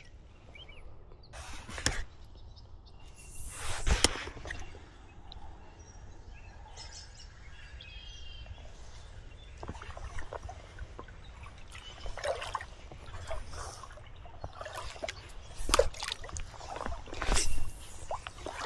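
River water sloshing and splashing in the shallows, with a few louder splashes scattered through, and faint bird calls in the background.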